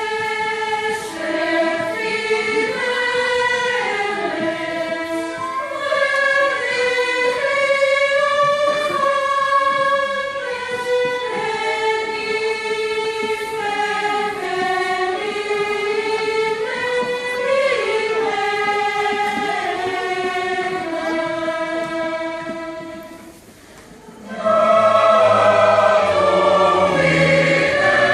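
A choir singing a slow melody. About three-quarters of the way through it falls briefly quiet, then comes back louder with a deeper low part underneath.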